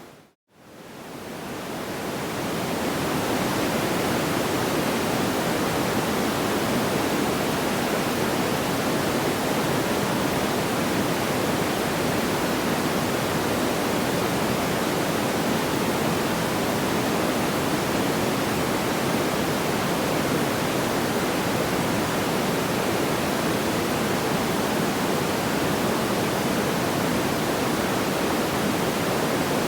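Steady, even rushing noise with no distinct pops or crackles. It cuts out to silence just after the start and fades back in over about two seconds, like a loop point in a sleep-noise track.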